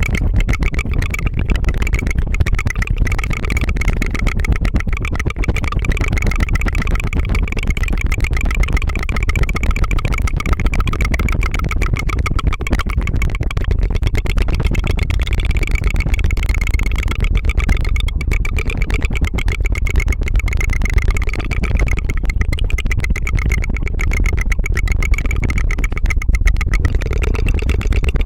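Tongue fluttering: a rolled-tongue trill for ASMR, held without a break as a rapid buzzing 'putt-putt-putt' much like a small engine idling.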